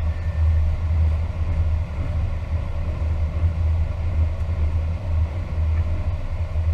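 Airbus A320 cockpit noise: a steady low rumble that flutters in level, with no distinct events.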